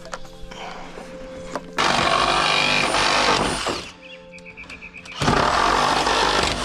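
Reciprocating saw (Sawzall) cutting through wooden deck framing in two runs of about two seconds each, the first about two seconds in and the second about five seconds in, each starting abruptly and winding down when the trigger is let go.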